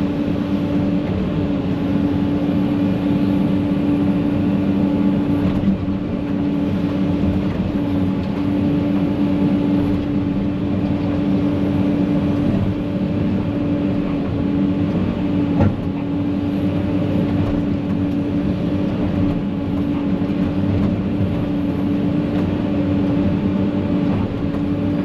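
Excavator's diesel engine running steadily with a constant whine, and two brief knocks, about six and sixteen seconds in.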